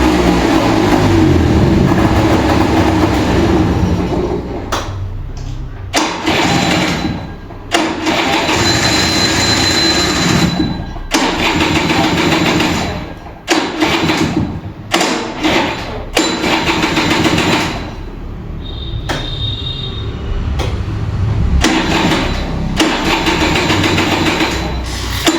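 Kinetic Honda two-stroke scooter being cranked on its electric starter during a hard cold start, the engine struggling to fire. After about four seconds of steady cranking, the sound breaks off and resumes many times in short attempts.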